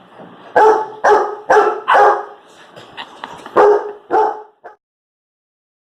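Yellow Labrador puppy barking: a quick string of about six loud barks with a few weaker ones between, cut off abruptly near the end.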